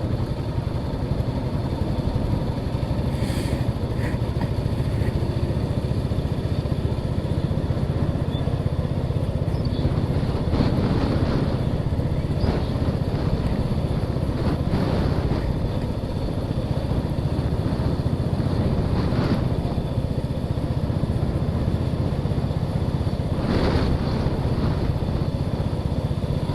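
Motorcycle engine running steadily while riding, heard from a camera on the moving bike, with a few short louder swells.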